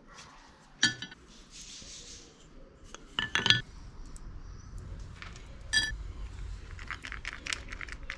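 Metal pieces clinking and knocking together in a knife-making workshop. There are three sharp strikes that ring briefly, about a second in, around three and a half seconds and near six seconds, then a run of lighter quick taps near the end.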